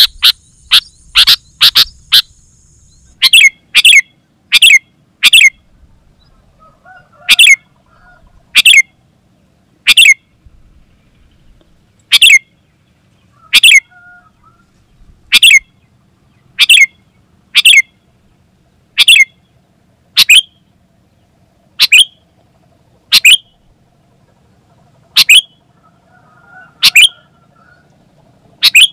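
Sooty-headed bulbul calling: short, sharp notes, a quick run of them in the first couple of seconds, then one about every one and a half seconds.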